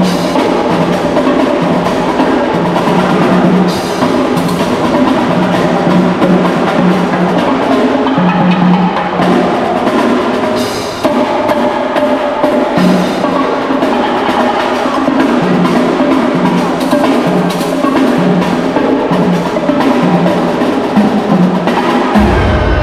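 Percussion music from a street drumming show: loud, busy drum and wood-block-like hits over a repeating bass note. A low rumble sets in near the end.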